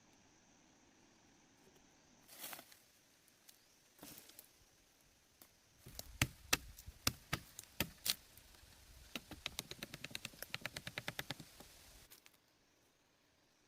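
A series of sharp knocks or taps, irregular at first and then a quick, even run of them, stopping suddenly.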